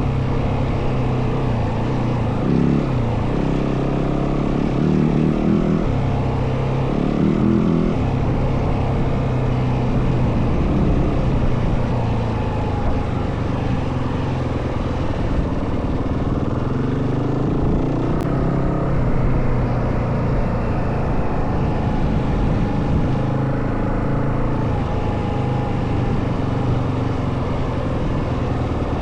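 Yamaha WR450F dirt bike's single-cylinder four-stroke engine running under way off-road. Its pitch rises and falls several times in the first eight seconds and again about halfway through, as the rider works the throttle and gears.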